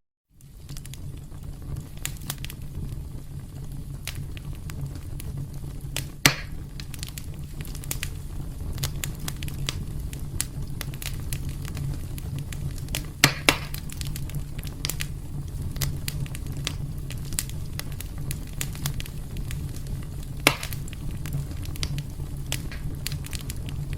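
Wood fire burning in a fireplace: a steady low rumble of flame with constant small crackles and a few louder pops, two of them in quick succession about halfway through. The sound cuts out for a moment at the very start.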